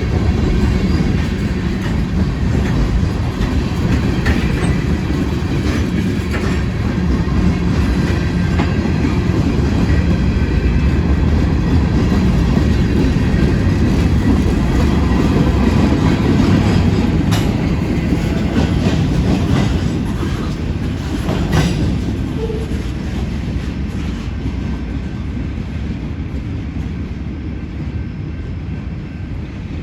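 Freight train cars rolling past with a steady low rumble and the clicking of wheels over rail joints, with a sharp click about two-thirds of the way through. The sound eases off gradually near the end.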